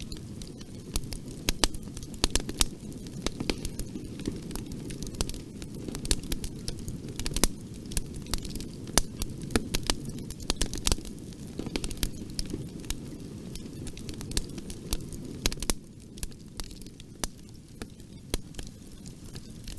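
Wood fire crackling in a fireplace: irregular sharp pops and snaps over a steady low rumble of burning. The rumble drops a little near the end.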